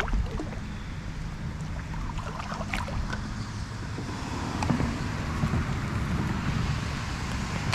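Wind buffeting the microphone aboard a fishing boat over a steady low rumble, with a few light clicks about two to three seconds in. The rush of wind grows stronger in the second half.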